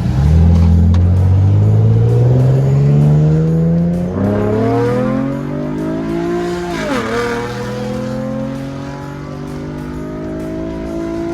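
Chevrolet Camaro engine accelerating hard through the gears: the revs climb steadily, break at a shift about four seconds in, drop sharply at another upshift about seven seconds in, then climb again.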